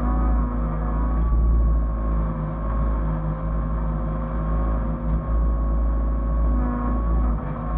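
Hyundai excavator's diesel engine running steadily with a deep rumble, its pitch dipping slightly and recovering a couple of times.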